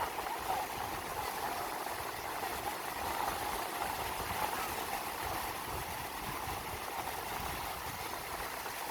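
Steady seaside noise of the sea at a beach, with wind rumbling on the microphone.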